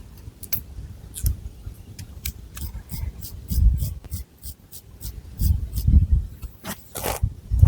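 Long fingernails scratching through thick hair on a scalp: a quick run of sharp, crisp scratches, about three to four a second, with a longer drawn scratch near the end and dull low thuds of hair and hands moving close to the microphone.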